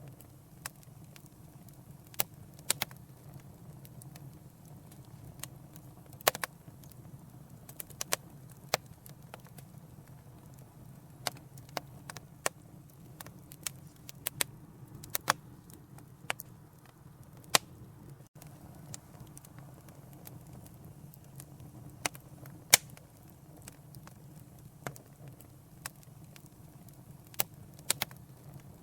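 Fireplace fire crackling: irregular sharp pops and snaps, several every few seconds, over a low steady rumble of the flames.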